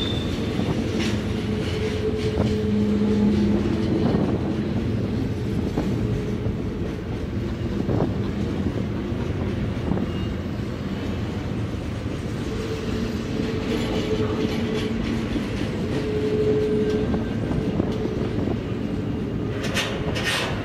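Canadian National double-stack container cars rolling past, a steady rumble of steel wheels on rail with faint squealing tones coming and going as they take the curve. A few sharp clicks sound near the end.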